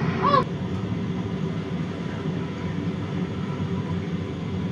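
Steady low rumble of an Amtrak passenger train at a station platform, with a brief wavering tone about a quarter second in.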